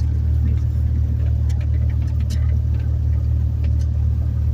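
Cessna 172's four-cylinder piston engine and propeller running with a steady, deep drone.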